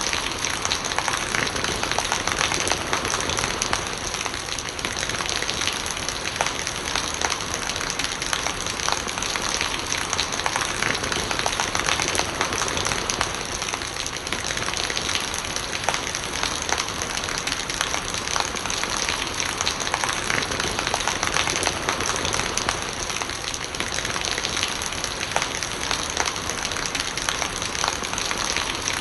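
Steady rain with a dense patter of drops, and rainwater running and gurgling.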